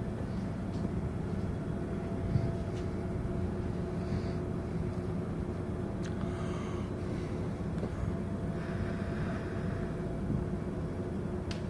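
Steady low rumble with a faint, even hum from a cruise ship's machinery during berthing.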